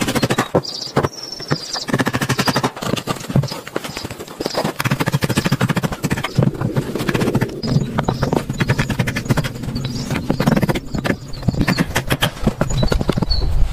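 A rapid, uneven run of knocks and impacts on wood, as timber is worked during cabin building.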